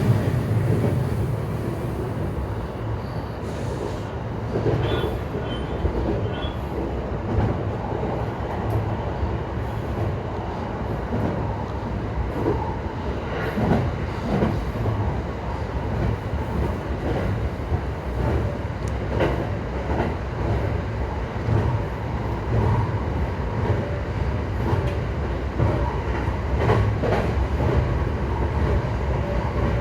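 E235-1000 series electric train running at speed, heard from inside the car: a steady rumble of wheels on rail with scattered knocks from rail joints.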